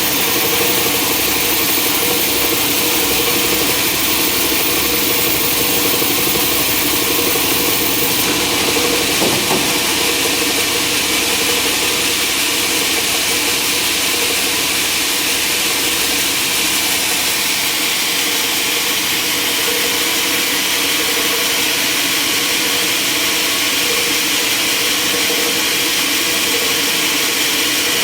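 Sawmill machinery running steadily, a constant mechanical hum under a strong hiss, with a faint knock about nine seconds in.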